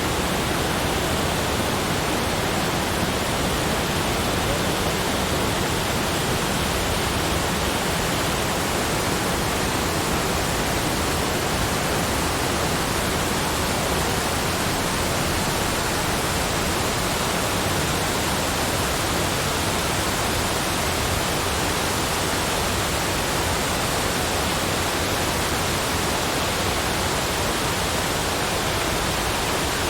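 Steady, even rushing of running water, holding the same level throughout.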